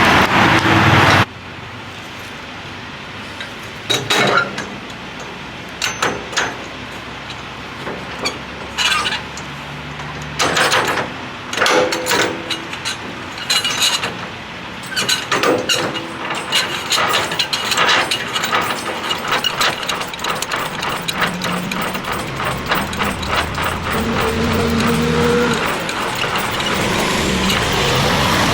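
Metallic clicks, clanks and ratcheting of a semi-trailer being unhooked from a truck, over the steady running of the truck's engine. A quick run of clicks comes around the middle, and the engine grows louder near the end.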